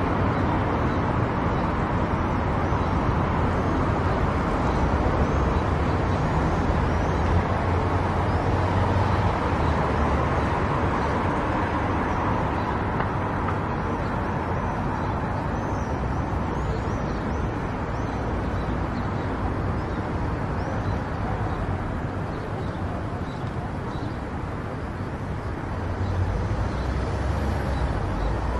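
Steady road noise of a car being driven: tyre and engine rumble with a hiss above it. It eases a little past the middle and rises again near the end.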